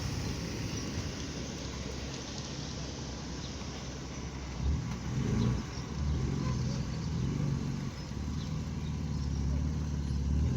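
A car engine running at low revs as the car moves slowly at low speed. The note swells louder about four and a half seconds in, and again near the end.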